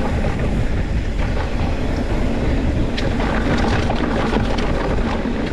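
Wind buffeting the microphone while riding down a loose, dusty dirt trail, with scattered crunches and ticks from tyres on gravel.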